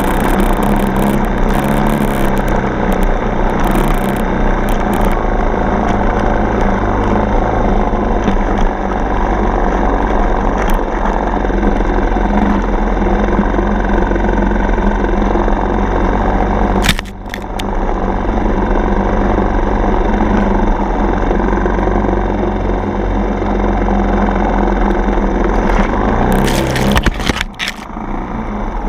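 Dirt bike's single-cylinder four-stroke engine running steadily as the bike is ridden, the throttle briefly closing and reopening twice, about seventeen and twenty-seven seconds in.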